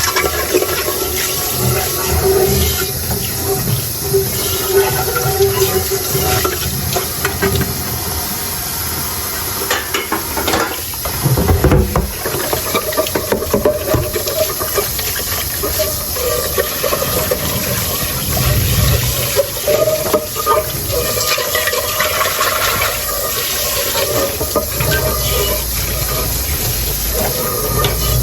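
Tap water running steadily into a kitchen sink while dishes are washed by hand, with scattered clinks and knocks of dishes, busiest about halfway through.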